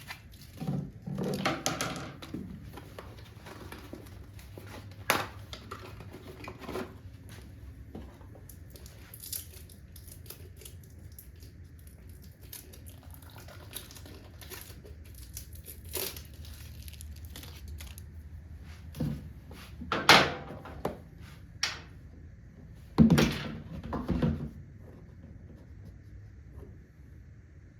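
Hands working on a motorcycle oil filter: crinkling and rustling with scattered light clicks and knocks, two louder knocks in the last third.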